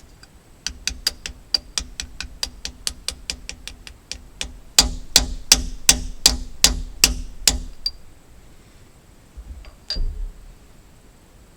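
Hammer striking metal in a steady series of blows, three or four a second: lighter taps at first, then about eight harder, ringing blows, and one more strike near the end.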